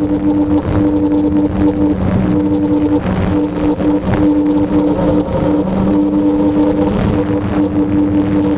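Blade 350QX quadcopter's electric motors and propellers buzzing steadily in flight, a droning tone that drops out and comes back several times.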